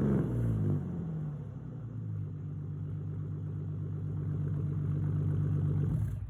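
Ford Mustang 4.0-litre V6 through a straight-piped catback exhaust, dropping back from a rev during the first second and then idling steadily. The sound stops abruptly near the end.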